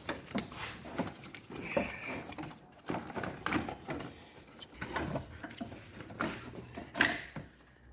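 Irregular plastic clicks and knocks of the 2009 Pontiac Vibe's fuse block being pushed out of its housing by hand, its clips and tabs snapping and rattling, with a sharper click near the end.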